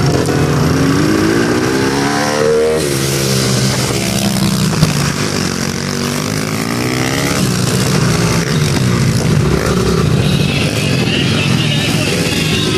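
Small mini dirt bike engines running and revving, their pitch rising repeatedly as the bikes accelerate.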